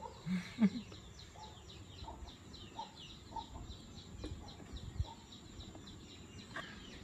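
A small bird chirping rapidly and steadily, about four short falling chirps a second, with a few faint chicken clucks now and then.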